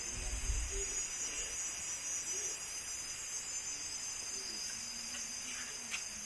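Steady high-pitched chorus of insects in the forest, with a brief low rumble in the first second.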